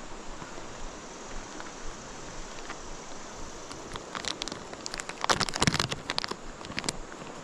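Creek water running steadily, with a cluster of sharp clicks and crackles close by about four to six seconds in.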